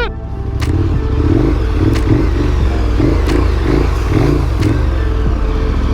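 Big adventure motorcycle's engine pulling in low gear over rough trail, the revs rising and falling about twice a second as the throttle is worked. A few sharp knocks come through about every second and a half.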